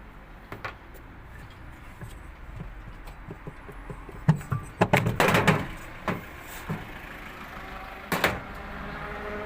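Hand-tool work on a washing machine's gearbox pulley: scattered knocks and clatter, with a dense run of loud knocks about halfway through and another brief burst near the end.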